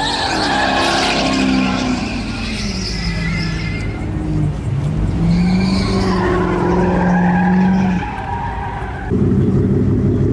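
Truck engine revving up and down under load while the tires squeal, a burnout. Near the end the sound cuts abruptly to a steady, lower drone.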